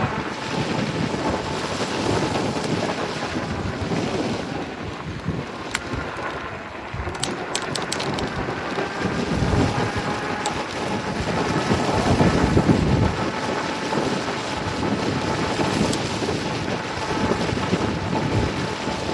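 Wind buffeting the microphone of a riding e-bike rider, a steady rumbling rush, with a few faint clicks about seven to eight seconds in.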